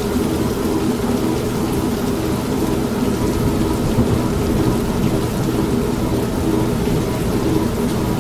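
Steady rain mixed with an old washing machine running, its motor giving a low steady hum, and thunder rumbling low.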